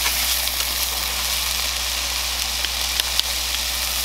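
Ground beef patties and sliced onions sizzling in a hot cast iron skillet: a steady frying hiss, with a few sharp crackling pops about three seconds in.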